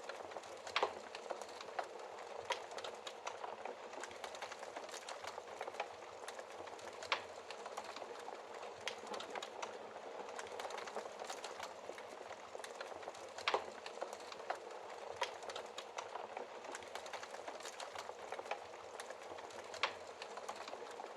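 Wood fire burning in a fireplace: a steady hiss and constant small crackles, with a few louder snaps scattered through.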